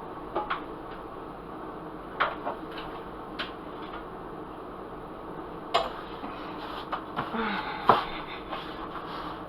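Kitchen clatter: scattered clinks and knocks of utensils and cookware over a steady hiss, busiest about six to eight seconds in.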